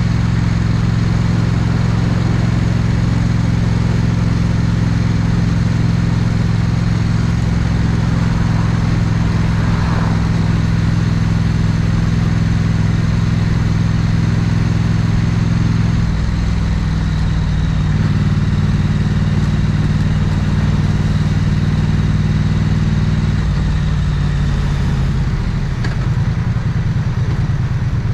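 Triumph Bonneville 900cc parallel-twin motorcycle engine running at a steady low speed through its exhaust. The engine note shifts a couple of times past the middle, then drops near the end to a slower, pulsing beat close to idle.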